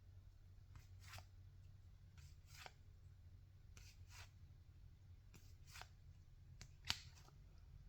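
Faint swishes of baseball trading cards being slid off a stack one after another, coming in quick pairs about every second and a half, with a sharper flick near the end, over a low steady hum.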